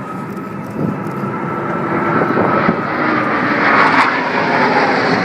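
Airplane flying past at an air show, its engine noise growing louder and peaking about four seconds in, with a whine that slowly falls in pitch as it passes.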